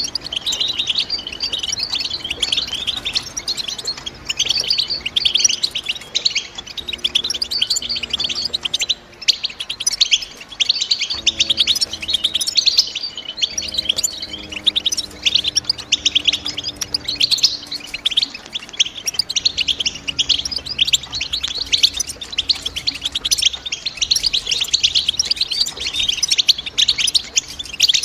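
European goldfinch song: a continuous, rapid twittering of high, fast chirps and trills.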